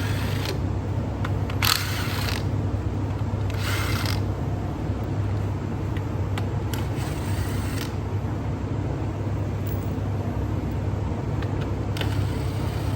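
Workshop noise: a steady low hum, with five short scraping or rushing sounds about two to five seconds apart, from hands-on work during an engine teardown.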